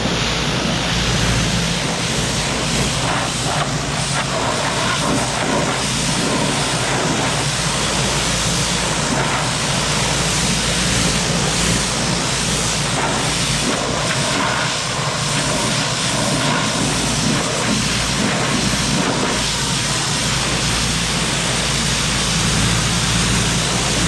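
Pressure washer spraying water onto a tractor: a loud, steady hiss of spray over a low machine hum.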